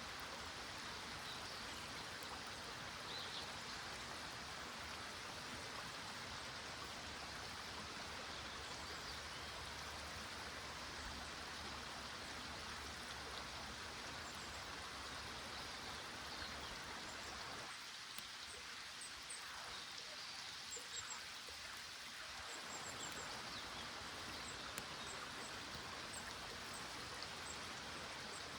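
Small stream running steadily, a continuous water rush, with faint high chirps scattered through it.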